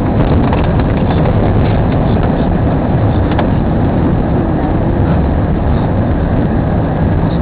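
Steady low rumble of a car driving, heard from inside the cabin: road, engine and wind noise.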